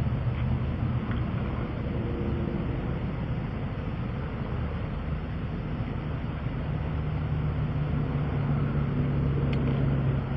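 Motor vehicle engine running steadily with a low hum.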